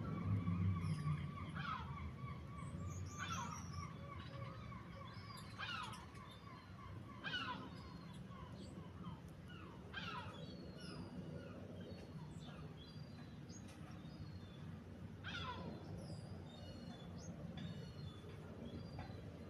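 Birds calling: short, sharp chirps repeated every second or two, with a thin steady high tone through the first eight seconds or so and a low rumble fading out near the start.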